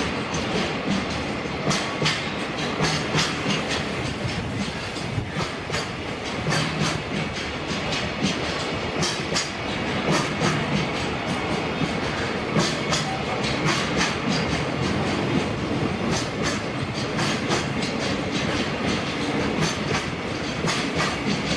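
Container freight train wagons rolling past close by: a steady rumble with a run of sharp, irregular clacks from the wheels over rail joints, several a second.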